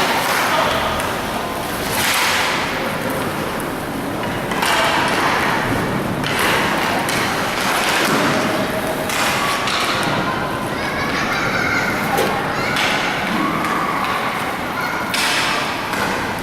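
Inline hockey game sounds: repeated thuds and knocks every second or two over a steady rolling noise, with faint voices in the background.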